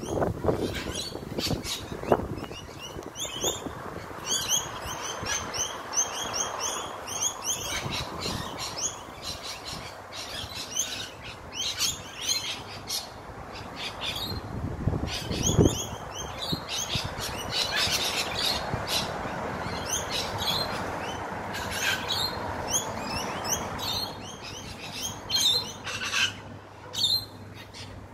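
A group of birds chattering: many short, high chirps and screeches in quick runs, over a steady background hiss.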